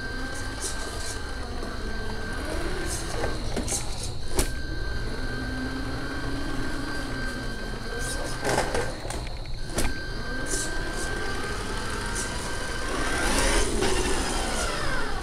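1/14-scale radio-controlled Scania R470 truck model running, its sound rising and falling in pitch as it speeds up and slows, with scattered clicks and knocks. The pitch climbs and falls most strongly near the end.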